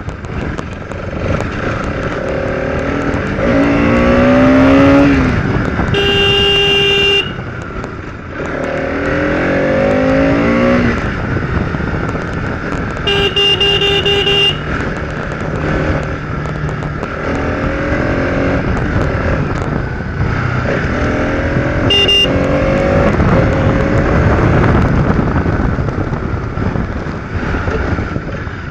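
Motorcycle engine accelerating again and again, its pitch climbing and dropping back as it goes up through the gears. A vehicle horn sounds twice in blasts of about a second, then once more as a short toot.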